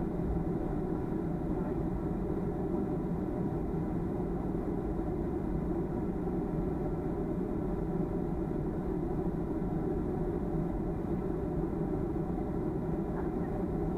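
Steady cabin drone of a Boeing 737-300 heard from inside the passenger cabin: the low rumble of its CFM56-3 jet engines and airflow, with faint steady tones running through it.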